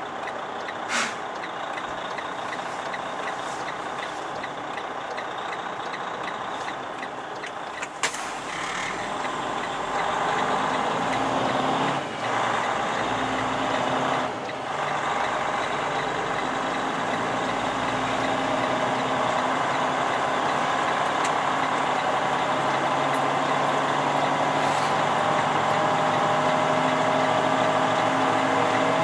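Semi truck's diesel engine running, heard from inside the cab, with a short sharp hiss about eight seconds in. The engine gets louder about ten seconds in, and its tone slowly rises toward the end.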